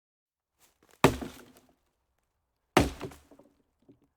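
Two sharp impacts about 1.7 seconds apart, each dying away within about half a second.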